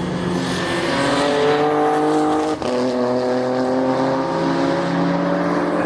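Racing car engine accelerating hard, its pitch rising, with a brief break for an upshift about two and a half seconds in before it climbs again.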